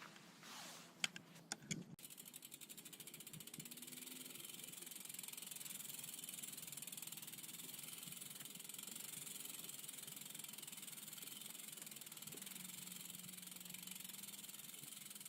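Faint, fast, steady ticking of a bicycle freewheel ratchet as the bike coasts, after a few sharp clicks in the first two seconds.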